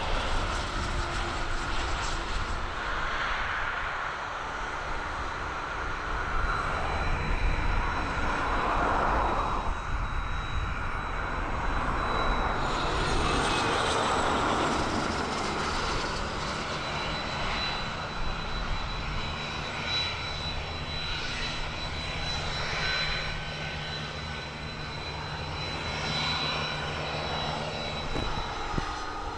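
Fixed-wing aircraft engines running, with a thin steady high whine through much of it.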